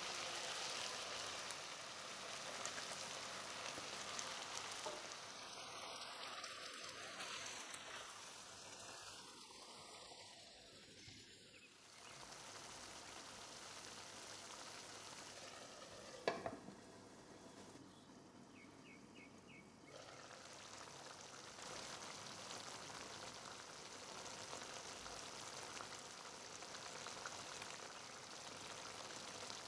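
Chicken pieces sizzling in a pan, first in hot oil and then in a tomato masala sauce: a steady hiss with fine crackle. There is one sharp knock about sixteen seconds in.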